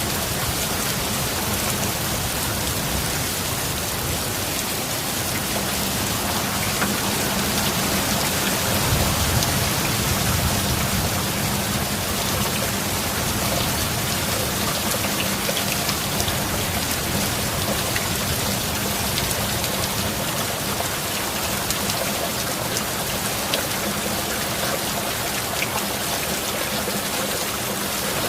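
Steady heavy rain falling, with a brief low rumbling swell about nine seconds in.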